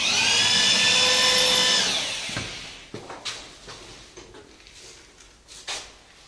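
A small electric motor whining up to speed, running steadily for about two seconds, then winding down, followed by a few scattered clicks.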